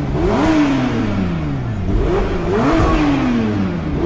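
Porsche 911 GT3 RS's 4.0-litre engine revved twice with the car standing: each time the pitch climbs quickly, then falls slowly back toward idle.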